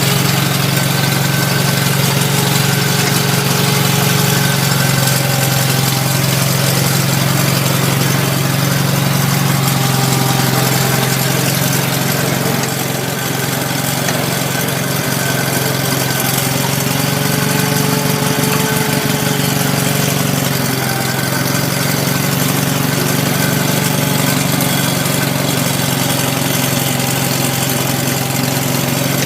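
The Onan twin-cylinder engine of a 1977 Sears Suburban 18/6 garden tractor running steadily, shortly after a cold start from a month of sitting. Its speed sags a little about halfway through, then picks back up.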